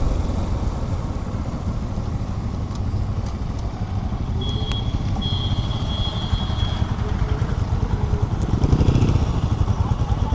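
Motorcycle running at highway speed, with a heavy, choppy wind rumble on the microphone. A thin high tone sounds twice around the middle.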